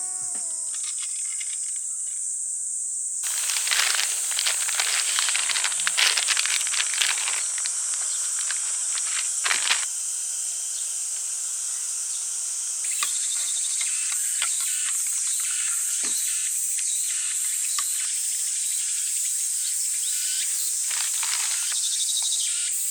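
A steady, high-pitched chorus of insects buzzing in a summer forest. From about three seconds in until about ten seconds in, a louder crackling, rustling noise sits over it, with scattered lighter clicks later on.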